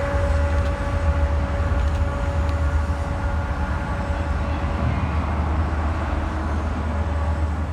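Freight train rolling past: a steady low rumble of the train with a steady tone over it that fades out about five seconds in.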